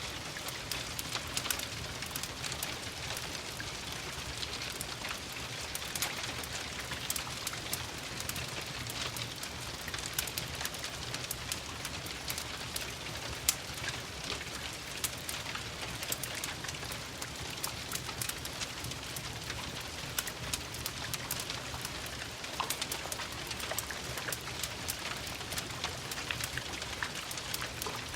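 Steady rain pattering on a window, mixed with the scattered sharp crackles and pops of a wood fire in a fireplace.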